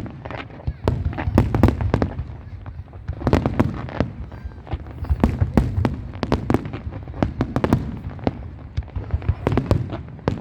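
Fireworks display: sharp bangs and crackles in quick clusters, the loudest around one and a half seconds, three and a half seconds and near the end, over a continuous low rumble of further bursts.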